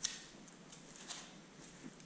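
Footsteps on rock and wet ground: a sharp click at the start, another about a second in, and soft thuds near the end.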